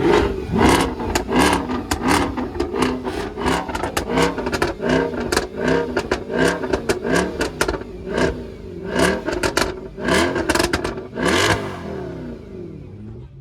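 Mercedes-AMG 6.2-litre V8 being revved in quick repeated blips, about two a second, each rising and falling in pitch with a sharp crack at the peak. The revving stops shortly before the end.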